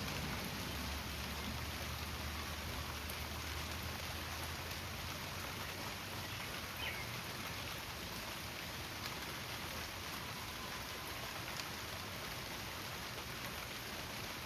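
Steady heavy rain pelting down on cement.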